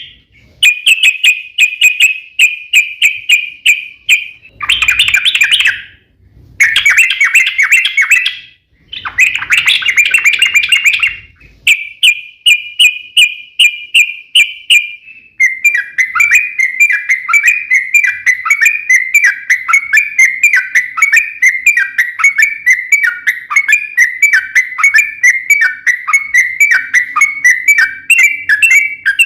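Yellow-vented bulbul singing: bursts of quick, bubbly phrases with short gaps, then from about halfway a long unbroken run of fast, rapidly repeated notes (the long 'ropel').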